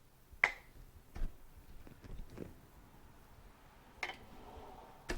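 A few sharp metal clicks and knocks, a couple with a short ring, from hand tools prying at a stuck oil seal in a Suzuki TS250 motorcycle fork tube. The loudest click comes about half a second in.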